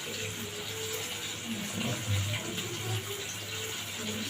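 Chicken deep-frying in hot oil: a steady, even sizzle with a low hum underneath.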